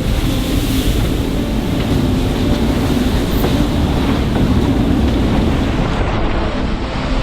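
Loud, steady rush of wind and water with a heavy rumble aboard an ocean racing yacht driving upwind through rough seas. The high hiss drops away about six seconds in.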